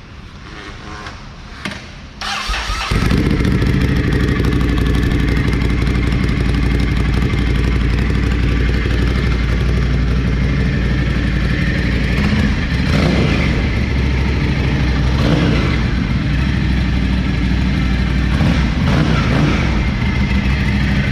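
Ducati Scrambler's L-twin engine cranking and catching about two seconds in, then idling loudly and steadily, with a few throttle blips that rise and fall in pitch.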